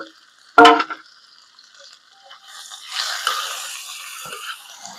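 Chopped onion, tomato, garlic and ginger sizzling in a little oil on a tawa as a spatula stirs and scrapes them, starting about halfway in. A brief vocal sound comes just before, about half a second in.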